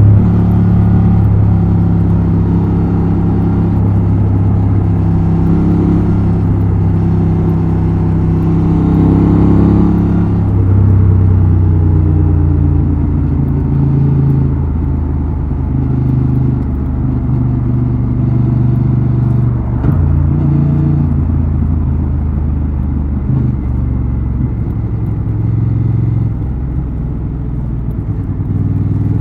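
Honda XL750 Transalp's 755 cc parallel-twin engine and exhaust running under way. The engine note steps up and down several times as the throttle and revs change, and picks up again near the end.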